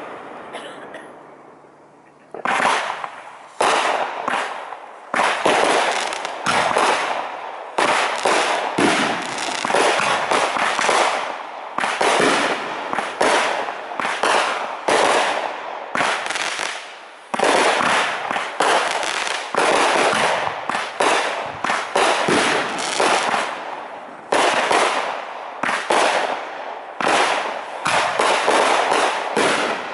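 Aerial fireworks bursting in quick succession, a dense run of loud bangs and crackles that starts about two seconds in and keeps going with only brief lulls.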